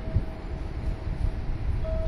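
Electric local train of JR West 223 series and 225 series cars pulling into the platform, a steady low rumble of wheels on rail.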